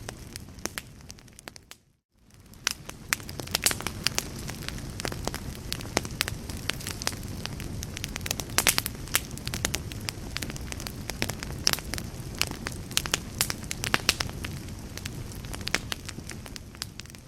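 Wood fire in a fireplace crackling, with frequent sharp pops over a steady low rumble of flames. The sound drops out briefly about two seconds in and fades back up, and fades down again near the end.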